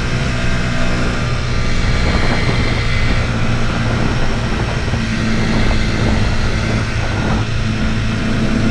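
Motorcycle engine running at a steady speed under way, with wind rushing over the microphone.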